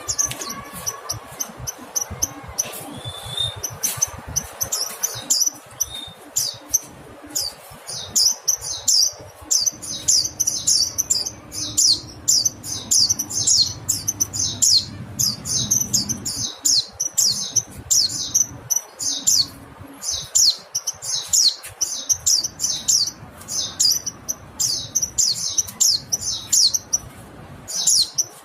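Mountain white-eye (pleci montanus) calling: short, high, downward-sweeping chirps, scattered at first and then in a rapid, continuous chatter from about eight seconds in.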